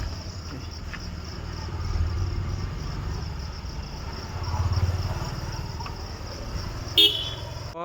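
Loaded truck's diesel engine running with a low rumble that swells twice, under a steady high chirring of insects. A brief sharp click comes near the end.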